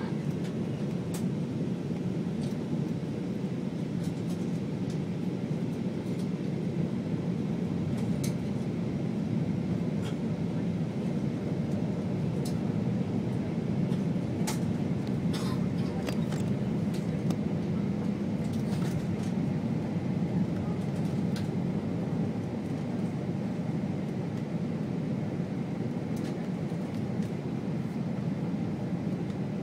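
Cabin noise of an Airbus A320 on approach: a steady low drone of engines and airflow that holds level throughout, with a few faint clicks and rattles.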